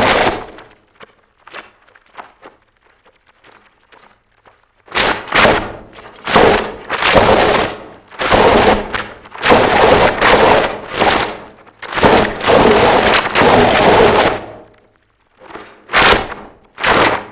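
Harsh noise music: dense, distorted blasts of noise in irregular bursts. Faint crackle for the first few seconds, then a long run of loud blasts with short breaks between them, then two short sharp bursts near the end.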